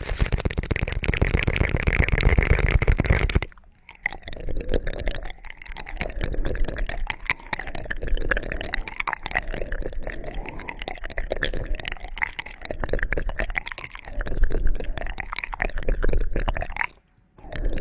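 Close-miked ASMR ear-cleaning sounds: dense crackling and scratchy rubbing on the microphone with a low rumble. About four seconds in, it settles into slow, even strokes roughly every second and a half.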